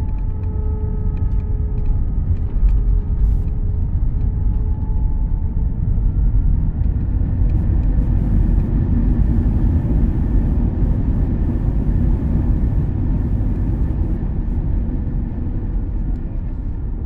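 Inside the cabin of a United Airlines Airbus A319-100 during landing: a loud, steady low rumble, with a faint steady engine whine for the first few seconds and the noise swelling between about eight and fifteen seconds in.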